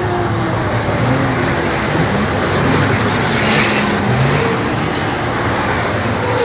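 Diesel engines of racing trucks running at speed, with several engine pitches rising and falling over a loud, steady wash of noise.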